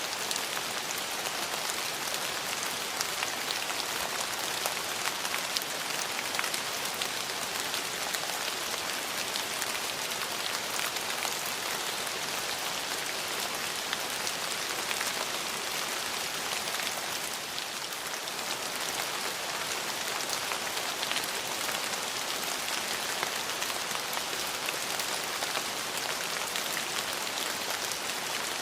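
Steady rain falling, with many fine drop ticks on hard surfaces and a slight lull about two-thirds of the way through.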